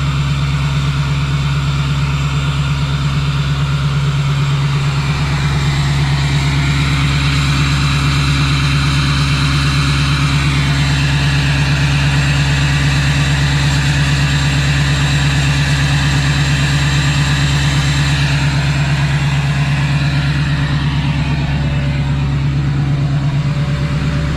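2006 LBZ Duramax 6.6-litre V8 turbo-diesel with a 5-inch straight pipe, idling steadily and loudly at cold-start high idle, just above 1,000 rpm, as the engine warms up after starting without glow plugs.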